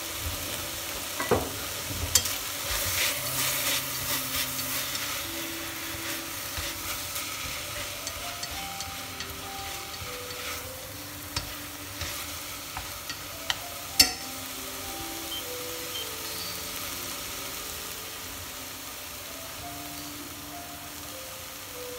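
Beef stir-fry sizzling in a stainless steel pot while being stirred, with a few sharp clicks of the utensil against the pot. The clicks are loudest about two seconds in and again about fourteen seconds in, and the stirring is busiest in the first few seconds.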